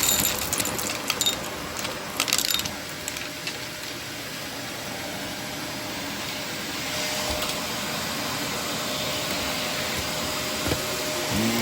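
Shark vacuum cleaner running, with quick crackling clicks of debris being picked up over the first three seconds or so, then a steady run.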